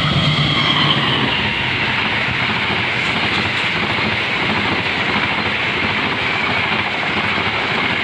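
Passenger train hauled by a CC 206 diesel-electric locomotive passing close by: the locomotive's low engine hum fades in the first second, then the coaches' wheels keep up a steady loud rolling noise on the rails. A high whine slowly drops in pitch through the first few seconds.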